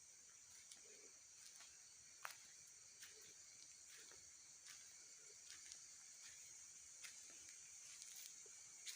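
Near silence with faint, steady night insects chirring, with a few soft scattered clicks.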